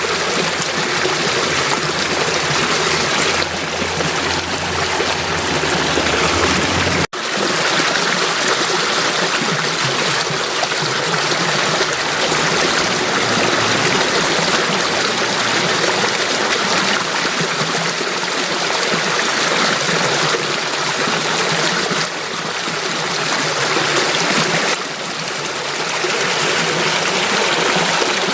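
Stream water flowing and trickling steadily, with a momentary break about seven seconds in.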